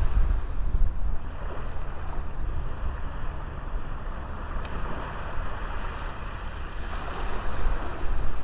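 Small sea waves washing onto a beach, the surf swelling and falling back, with wind rumbling on the microphone.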